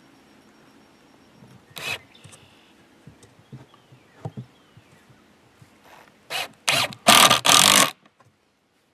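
Wooden swarm-trap box being handled: scattered light knocks and rubbing, then a run of four loud scraping rasps near the end that cut off abruptly.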